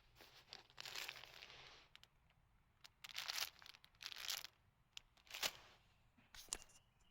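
Quiet crinkling and rustling of camping gear being handled, coming in a series of short bursts, the loudest about three, four and five and a half seconds in.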